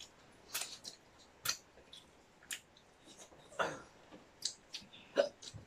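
Close-up eating sounds of a meal eaten by hand: irregular wet lip smacks and chewing clicks, about a dozen in a few seconds.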